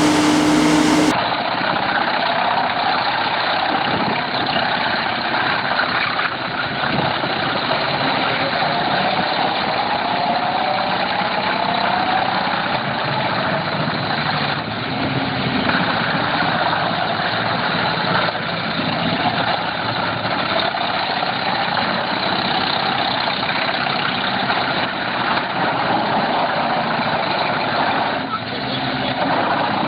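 Large engine-driven wood chipper running steadily, with a whine that rises and falls in pitch now and then; the sound changes abruptly about a second in.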